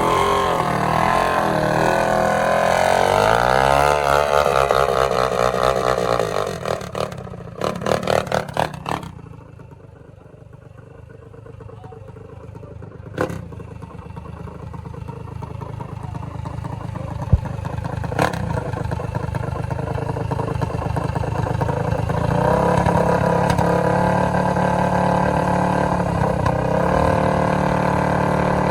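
Drag minibike engines at a dragstrip: an engine runs hard with its pitch sweeping up and down, then gives a series of short throttle blips and fades away about ten seconds in. Another engine note slowly builds and holds steady over the last several seconds, with a few sharp clicks along the way.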